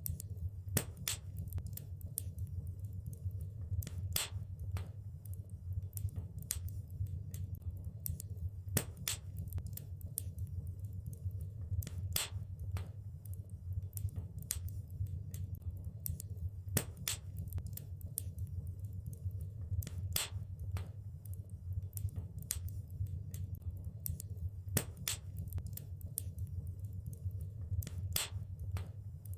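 Wood fire crackling in a fireplace: irregular sharp pops and snaps, some louder than others, over a steady low rumble of the flames.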